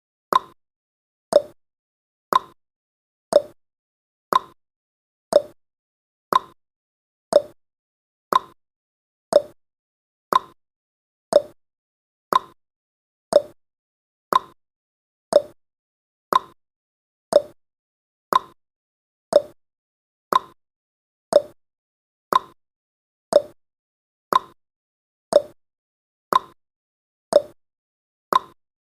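Countdown timer sound effect: one short tick every second, steady and evenly spaced, the ticks alternating between a slightly higher and a slightly lower pitch like a clock's tick-tock.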